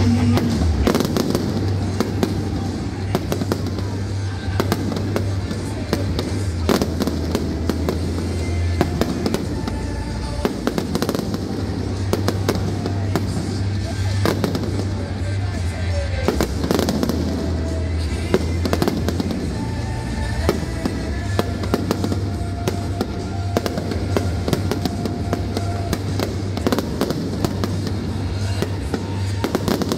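Fireworks bursting in quick succession, with many sharp bangs and crackles, while music plays underneath.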